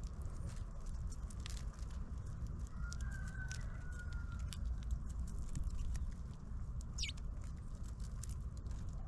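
Small birds at a feeder: scattered light pecking and tapping clicks, a soft whistled call a few seconds in, and a short high call falling in pitch about seven seconds in, over a steady low rumble.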